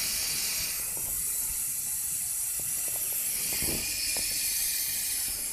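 Steady high-pitched hissing from a Ford Figo 1.4 TDCi's A/C compressor, with a few faint clicks under it.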